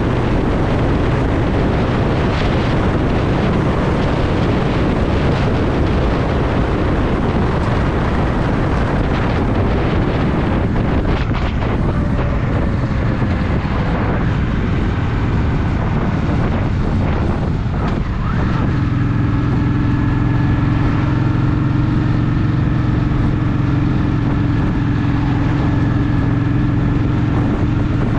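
Honda Shadow VT750's V-twin engine running on the move, mixed with wind noise on the microphone. About two-thirds of the way in, the rush thins out and the engine settles into a steady, even note.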